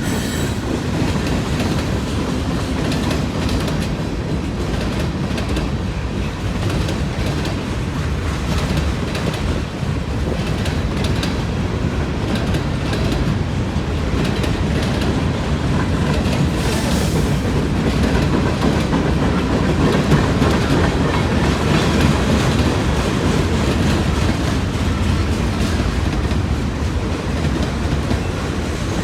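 Freight train cars rolling steadily past, with a constant rumble and wheels clicking over the rail joints.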